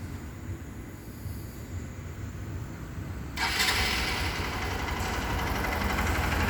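Motorcycle engine running at idle, with a steady low rumble; about three and a half seconds in, the sound abruptly gets louder and harsher and stays that way.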